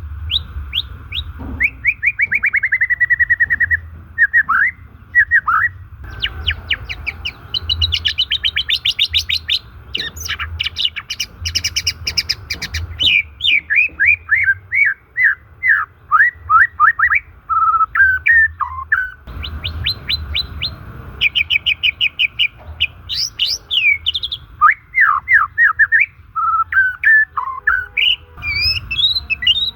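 White-rumped shama (murai batu) singing a long, varied song: rapid trills, fast runs of repeated notes and falling whistled sweeps, broken by short pauses. A steady hiss and low hum run underneath.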